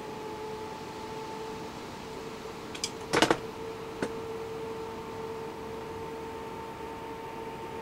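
A steady faint electrical hum, with a quick cluster of sharp clicks about three seconds in and a single click about a second later.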